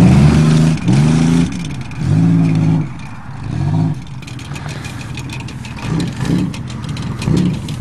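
Car engines running and revving at low speed, rising and falling in pitch several times in the first few seconds. A run of light clicks and crunches fills the second half.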